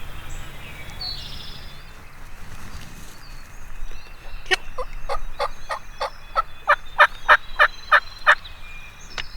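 Turkey yelping: a run of about a dozen evenly spaced notes, some three a second, starting about four and a half seconds in and growing louder toward the end.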